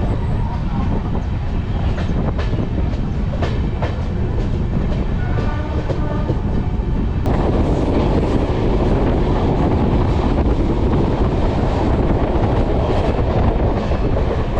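Grand Trunk Express passenger train running along the rails, wheels clicking over the rail joints under a steady rumble. About seven seconds in, the sound abruptly turns louder and denser as the train rolls onto the Narmada river bridge.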